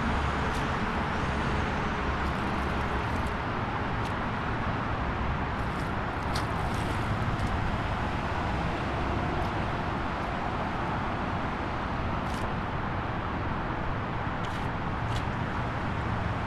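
Steady outdoor ambience: a continuous, even rumble and hiss with a few faint brief ticks.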